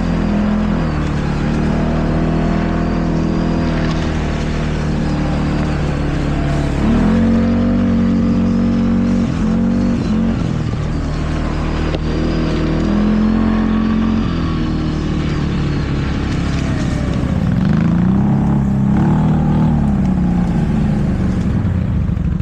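ATV engine running while being ridden, its pitch rising and falling several times with the throttle.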